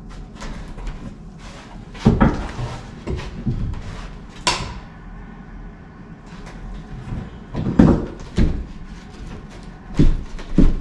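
Irregular wooden knocks and clunks, with one brief scrape about halfway through, as pieces of the torn-out floor and debris are handled and pulled from the opening.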